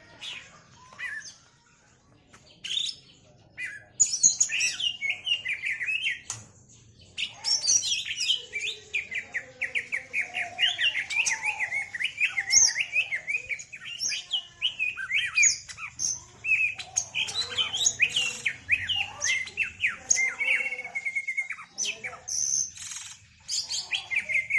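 Green leafbird (cucak ijo) singing: a few scattered calls, then from about four seconds in a fast, unbroken run of high chattering notes and mimicked fill-in phrases, with a short steady trill near the end.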